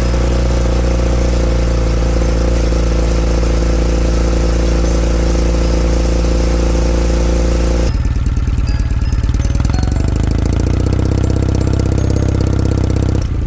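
Kawasaki W800's air-cooled parallel-twin engine running through a Yamato aftermarket muffler. Its exhaust note holds steady for about eight seconds, then drops to a slower, pulsing idle beat.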